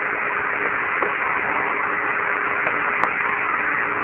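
Steady hiss of the Apollo 14 air-to-ground radio link on an open channel, with a faint hum underneath and a single click about three seconds in.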